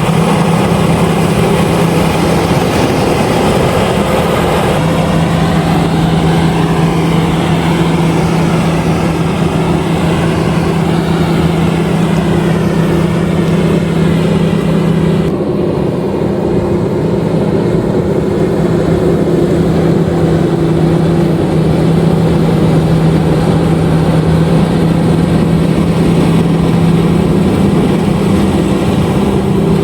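LOVOL RG130EVO rice combine harvester running steadily, its engine hum carrying a constant low tone under the noise of the machinery. About halfway through, the higher hissing part of the sound drops away suddenly while the engine tone carries on.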